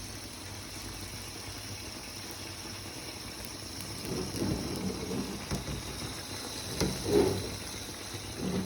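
Liquid pouring or running in a steady hiss, with a few low knocks and clunks in the second half, the sharpest about seven seconds in.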